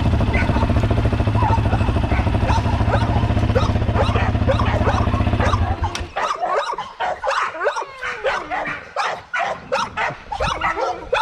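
Dogs whining and yelping over a steady running engine that shuts off about six seconds in; after that, dogs barking and yelping excitedly, many short barks in quick succession.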